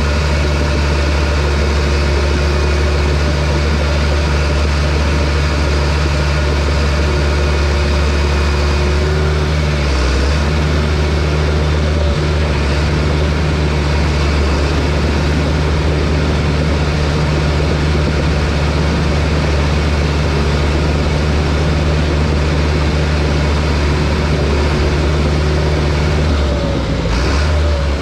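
Bulldozer's diesel engine running loud and steady, its note shifting briefly about ten seconds in and again near the end as the load or throttle changes.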